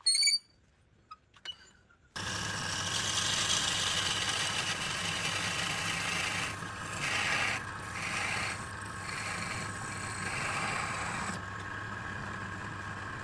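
A brief high-pitched call right at the start. About two seconds in, a workshop machine starts abruptly and runs steadily with a low hum and a hiss, its sound shifting a few times midway.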